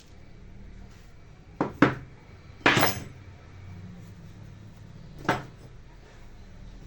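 Four sharp clinks and knocks of hard objects being handled and set down on a workbench: two close together, a longer rattle about a second later, and a last one near the end.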